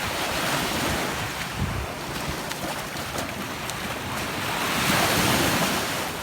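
Sea waves washing onto a beach, with wind buffeting the microphone. The surf swells twice, the louder wash about five seconds in.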